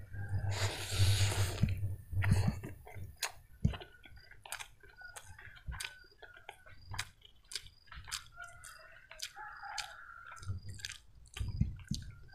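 A person chewing a mouthful of soft egg-wrapped fried rice close to the microphone, with wet mouth clicks at irregular intervals. A breathy hiss lasts about a second, starting about half a second in.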